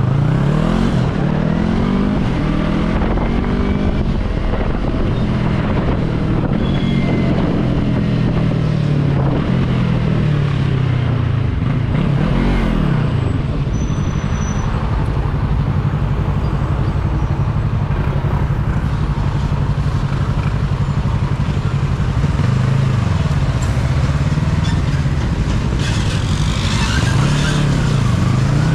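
Yamaha R3's parallel-twin engine running under way, holding a steady pitch for long stretches, with a few brief rises and falls in revs, over rushing wind.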